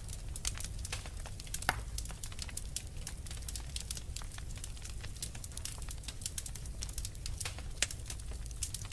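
Wood fire burning in a fireplace: irregular sharp crackles and pops over a steady low rumble, with a louder pop about two seconds in and another near the end.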